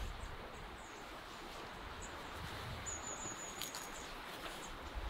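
Small bird giving a few brief, high, thin chirps and a short high trill about three seconds in, over faint outdoor background noise.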